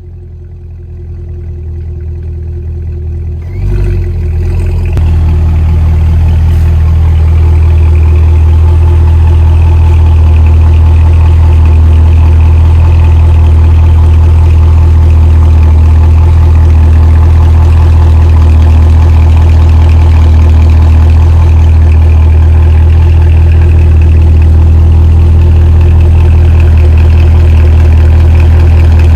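Cadillac CT5-V Blackwing's supercharged 6.2-litre V8 exhaust, growing louder over the first few seconds with a sudden jump about four seconds in, then settling into a steady, even idle.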